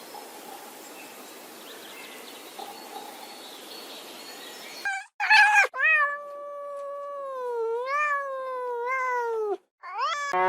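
Domestic cat meowing: two short meows about five seconds in, then one long, drawn-out meow of nearly four seconds with a wavering pitch, and another meow starting near the end. Before the meows there is only a faint steady hiss.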